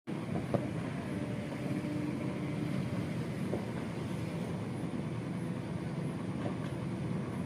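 Steady outdoor rumble with a few faint, sharp pops of distant fireworks, about three in all.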